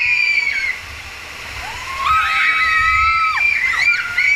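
Raft riders screaming and whooping in long, held high cries, several voices at once, loudest about halfway through, over the rush and splash of rapids water.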